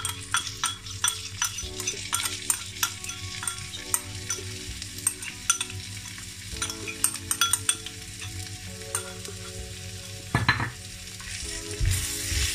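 Chicken breast pieces sizzling in hot oil in a wok, with many small clicks and scrapes as a metal spoon scrapes ketchup out of a ceramic bowl; near the end wooden spatulas stir the pan, louder. Soft background music with held notes underneath.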